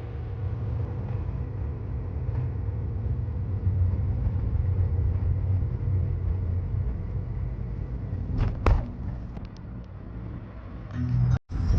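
Low, steady rumble of a car driving on the road, with a short sharp clatter a little over two-thirds of the way through.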